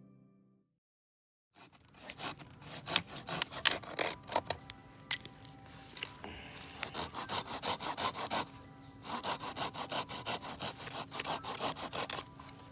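Wood being sawn by hand: scratchy, crackling strokes that start after a moment of silence and settle into a steady back-and-forth rhythm of two or three strokes a second about halfway through.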